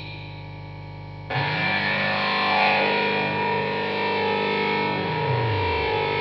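Electrical hum and buzz run through distortion and other effects units: a steady low hum, then a little over a second in a much louder distorted drone cuts in, holds one low pitch and slides down in pitch near the end.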